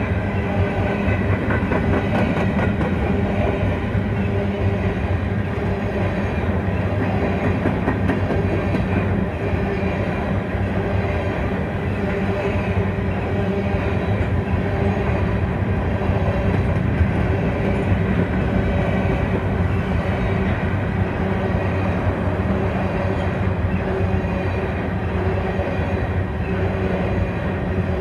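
Freight train of covered hopper cars rolling steadily past at close range: a continuous rumble of steel wheels on the rails.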